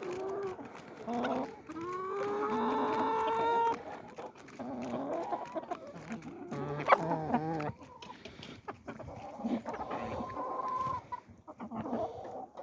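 Chickens clucking and calling as they feed, with one long drawn-out call about two seconds in and a sharp tap about seven seconds in.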